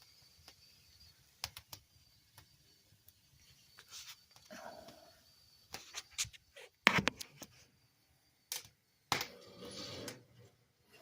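Wood fire in a fireplace crackling, with irregular sharp pops and snaps, the loudest about seven seconds in; the wood is slightly wet and degassing.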